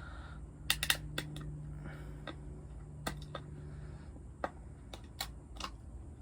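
Irregular sharp clicks and taps of small hard parts being handled during the teardown of a 1972 Nova drag car build, over a faint steady hum that stops about four seconds in.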